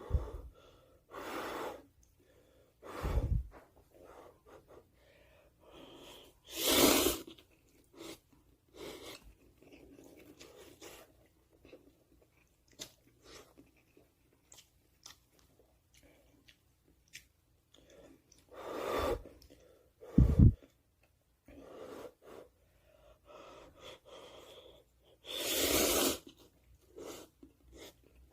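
Slurping and chewing instant cup ramyeon noodles, with four long slurps. There are also two short, low thumps, about three seconds in and about twenty seconds in; the second is the loudest sound.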